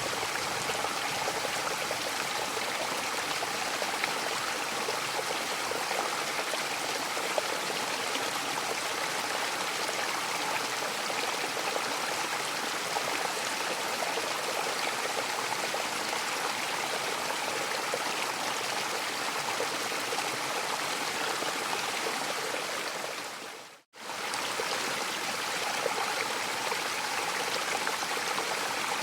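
Mountain waterfall rushing steadily, an even wash of falling water. About 24 seconds in it fades out to silence for a split second and comes straight back, a seam where the recording loops.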